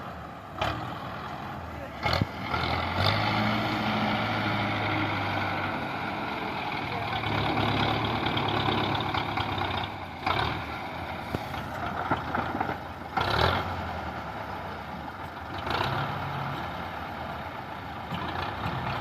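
Belarus 510 tractor's four-cylinder diesel engine running while working, with several sharp knocks along the way.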